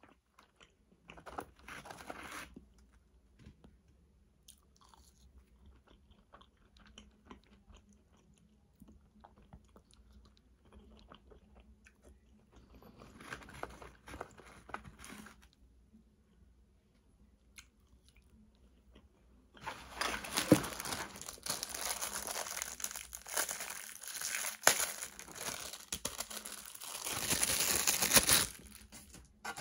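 Close-up eating sounds: chewing and crunching food into the microphone, soft and sparse at first, then a long loud stretch of crunching from about two-thirds of the way in until shortly before the end.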